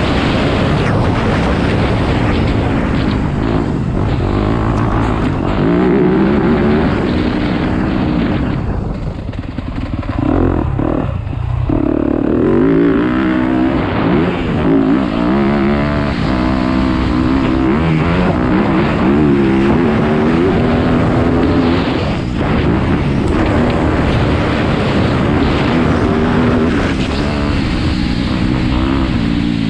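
Yamaha YZ250F motocross bike's four-stroke single-cylinder engine revving up and down as it is ridden round a dirt track, its pitch rising and falling with throttle and gear changes. About nine seconds in it drops off the throttle briefly, then pulls hard again.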